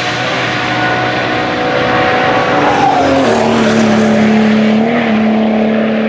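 GT racing car engines running. About three seconds in, the pitch drops and the engine settles into a steady low note.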